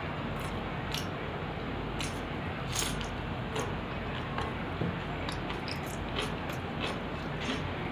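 Close-up eating sounds of rice and dal: chewing and wet squishing with scattered irregular mouth clicks, over a steady background hiss.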